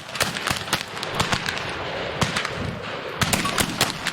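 Several Civil War black-powder carbines firing from a firing line in an uneven, overlapping string of shots, several a second.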